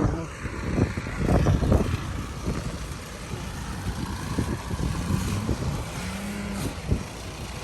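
A car stuck in deep snow, its engine revving as it tries to pull free without getting out. The engine note rises about five seconds in and holds briefly.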